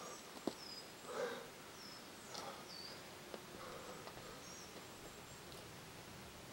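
Quiet forest ambience with a small bird giving a few short high whistled notes, each dipping and rising in pitch, in the first few seconds. A sharp tick comes about half a second in, and the climber exhales briefly twice, a little after the first second and again about a second later.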